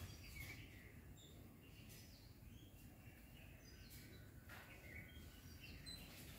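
Near silence: faint outdoor background with a low rumble, a few faint clicks, and scattered short distant bird chirps.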